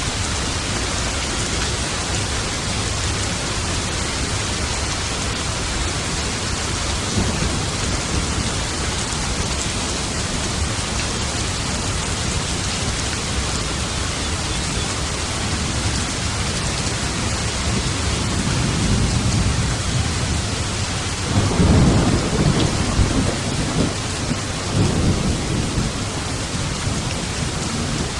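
Steady rain with thunder rolling in: a low rumble builds about two-thirds of the way through, is loudest shortly after, and swells once more before dying down.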